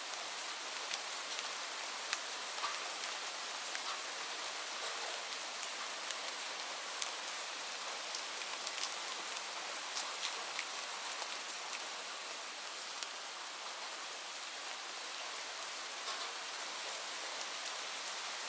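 Steady rain falling on leaves: an even patter with many distinct drops ticking close by.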